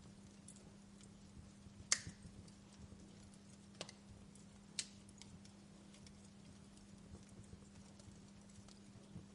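Wood fire crackling in a fireplace: scattered faint ticks with three sharper pops, the loudest about two seconds in, over a faint low steady hum.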